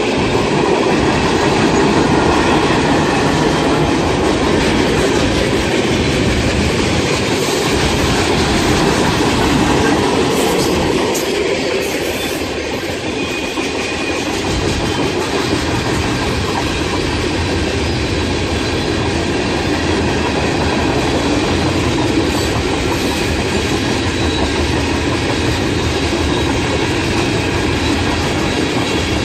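Train of railroad cars rolling past, a steady loud rumble and clatter of steel wheels on the rails.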